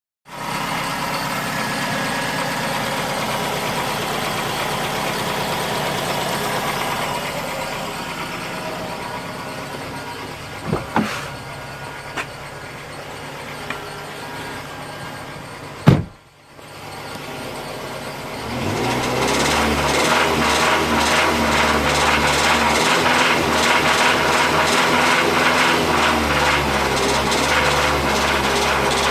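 2005 Mazda 6 2.3-litre four-cylinder engine running with a fast, regular knock from a worn connecting-rod bearing (rod knock). A few clicks and one sharp bang come a little past halfway, and the engine then runs louder with the knocking more pronounced.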